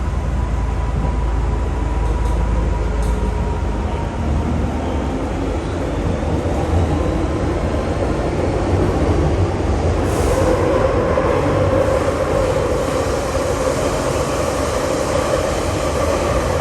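Interior sound of an old MTR Metro-Cammell electric multiple unit running on the Island Line: a steady rumble of wheels and running gear. A motor whine grows stronger about ten seconds in as the train gathers speed.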